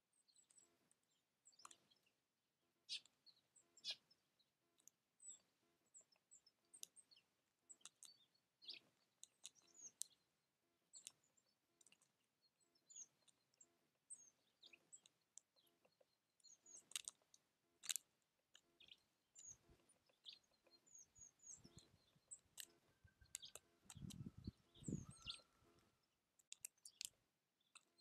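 Small songbirds at a feeder giving faint, short high chirps and calls, with scattered sharp clicks throughout. A brief low rumble near the end.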